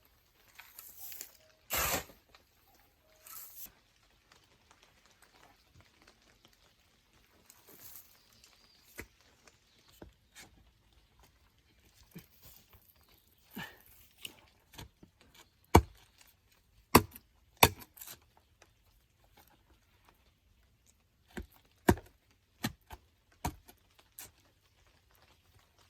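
Hand tools striking soil and stone: scattered sharp knocks and scrapes, a few in quick succession, with quiet stretches between.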